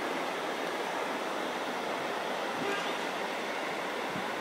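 Diesel multiple-unit passenger train pulling away into the distance: a steady, even rumble of engine and wheels on the rails.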